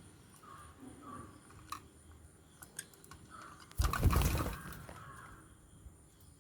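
African lovebirds at feeding time: faint, scattered chirps and small clicks, with one brief, loud rustling burst about four seconds in.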